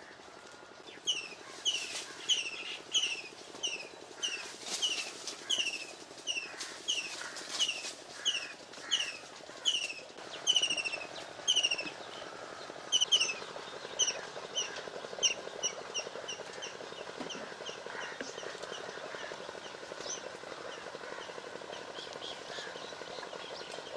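A bird calling over and over: short, high, downward-sliding chirps, about two a second. After the middle they come quicker and fainter, and they stop a few seconds before the end.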